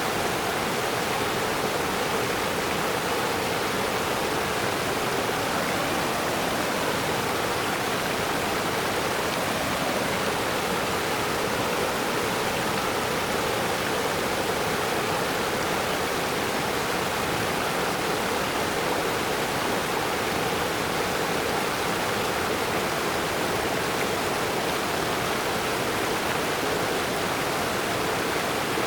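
Steady, unbroken rush of fast-flowing stream water.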